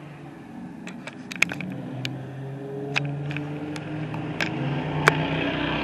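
An engine running steadily with a low hum, while about a dozen sharp knocks or clanks come at irregular intervals, most of them in the first half.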